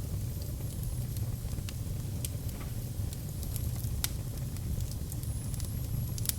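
Wood fire crackling in a fireplace: scattered sharp pops and clicks over a steady low rumble of the flames, with a faint high whistling now and then.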